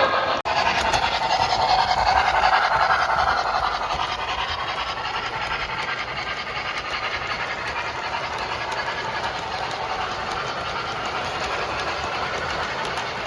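Steam train running along the track, with a steady hiss of steam and faint clicking of wheels over the rails. A brief dropout about half a second in breaks the sound.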